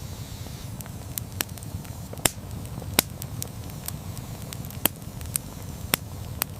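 Wood campfire burning with a steady low rumble of flames and irregular sharp crackles and pops, a few standing out louder.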